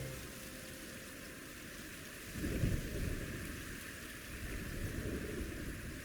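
A steady rushing, hissing noise without any pitch, swelling into a low rumble twice, about two and a half and about five seconds in.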